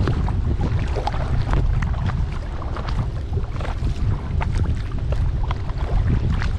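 Kayak paddling on a lake: water splashing and dripping off the paddle blades in many small irregular splashes, over a steady low rumble of wind on the microphone.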